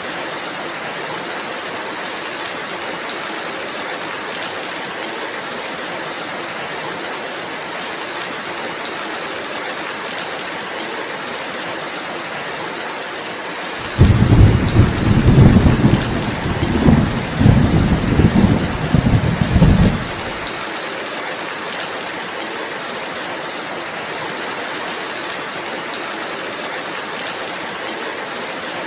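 Steady rain falling. About halfway through, a peal of thunder breaks in suddenly as a loud low rumble, rolling in several swells for about six seconds before it stops and leaves only the rain.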